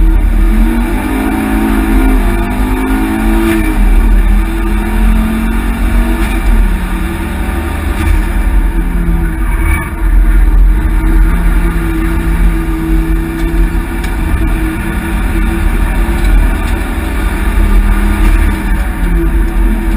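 Ford Focus XR5 Turbo's turbocharged five-cylinder engine heard from inside the cabin while driven hard on track, its pitch rising and falling as it revs and drops through the gears. Heavy road and wind noise runs underneath.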